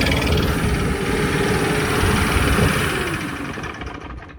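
Kawasaki KLE500 motorcycle engine running with a Stihl backpack leaf blower forcing air into its intake, the sound sagging and dying away over the last second or so: the engine stalls as soon as the blower is switched on.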